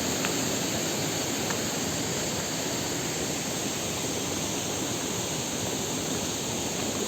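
Steady rush of flowing river water, an even hiss with no rhythm or breaks.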